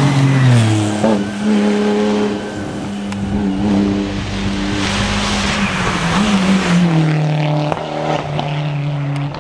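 Hill-climb race car engine running hard at high revs. Its pitch drops in the first second, holds steady for several seconds, then rises briefly and steps down again about seven seconds in, as with gear changes.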